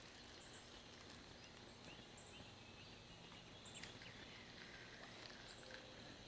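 Near silence: faint outdoor ambience with a steady high whine and a few short, high chirps scattered through it, like distant birds.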